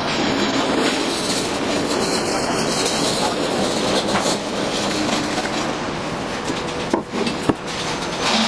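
Bandsaw cutting through a raised access floor tile: a steady, dense cutting noise, with two short clicks near the end.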